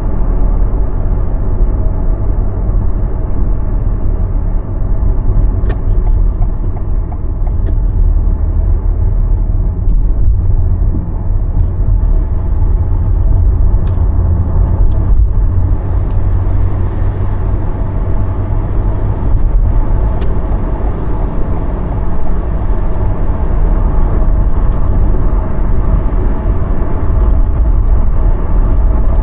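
Steady road noise of a moving car, a continuous deep rumble with a few faint ticks.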